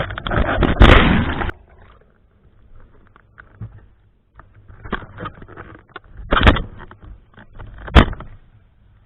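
Strong gusty wind buffeting the microphone with water splashing, a heavy roar for the first second and a half. It is followed by quieter crackling and three sharp knocks, at about 5, 6.5 and 8 seconds.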